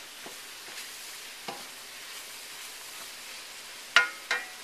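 Chicken and vegetables sizzling steadily in hot oil in a wok while being stirred together. A utensil knocks against the pan about a second and a half in, and more sharply near the end.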